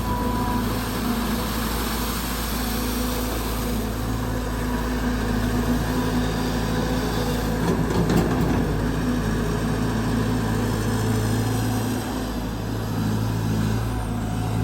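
Caterpillar 320 GX excavator's four-cylinder C4.4 diesel engine running steadily under digging load, with its hydraulic pump working.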